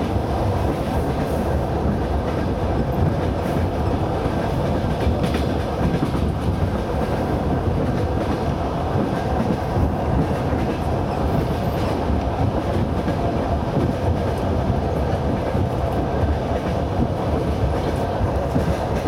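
Train running along the track: a steady, continuous rumble of wheels on rails.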